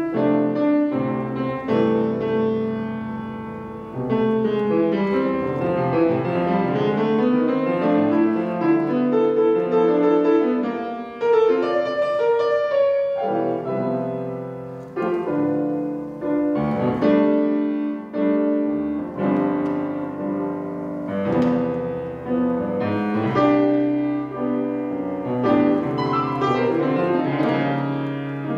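Solo piano improvisation: flowing runs and rolled chords, with many notes ringing together.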